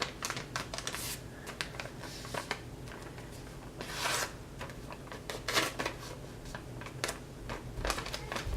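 A sheet of origami paper being handled and folded: crinkling, rustling and the small clicks of creases being pressed in, with a longer rustle about four seconds in.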